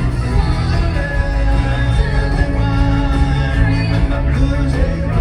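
Live rock band playing loud, with electric guitar over bass and drums.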